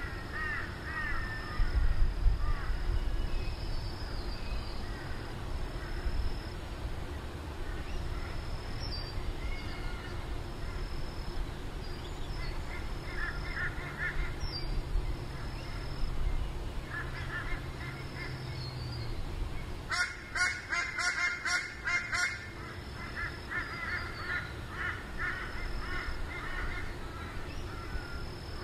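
Birds calling in the bush: bouts of repeated harsh calls, the loudest bout about 20 seconds in. A faint low hum runs through the middle seconds.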